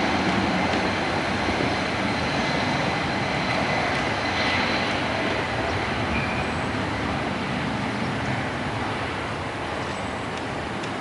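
Jet engines of a four-engined Boeing 747-400: a steady broad rumble with a faint high whine, slowly fading as the aircraft moves away.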